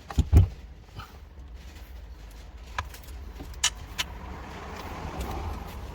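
A loud knock just after the start, then three sharp clicks a second or so apart, over a steady low hum: tools and parts being handled during car repair work.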